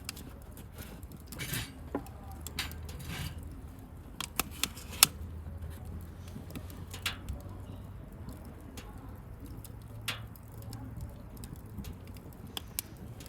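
Wood campfire crackling: irregular sharp pops and snaps over a steady low rumble, with a few short hissing flares. A cluster of louder snaps comes about four to five seconds in.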